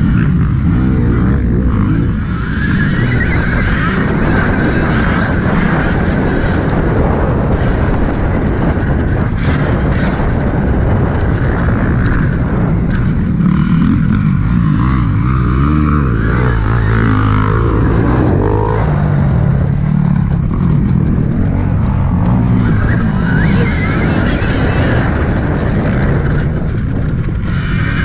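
Motocross dirt bikes running and revving, their pitch rising and falling over and over, under a constant loud roar.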